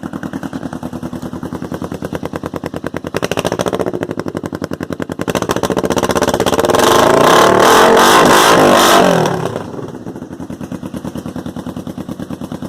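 2005 Kawasaki Vulcan 500's parallel-twin engine running through Emgo shorty aftermarket mufflers: idling with an even pulsing beat, a short blip of the throttle, then revved up and held high for about two seconds before dropping back to idle.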